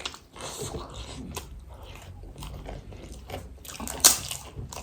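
Chewing and crunching of crisp street snacks, chatpate and pani puri, with a sharp crunchy bite about four seconds in.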